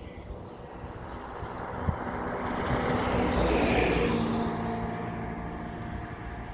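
Jet engine noise from a Boeing 737-800's CFM56 turbofans: a rushing roar with a steady hum that swells to a peak a little past halfway and then fades.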